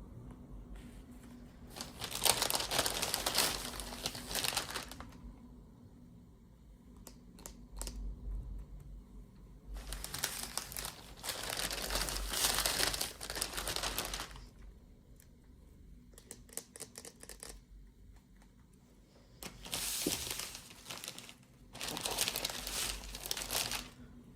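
Toy packaging being crinkled and torn open by hand, in four spells of a few seconds each, with faint clicks of handling between them.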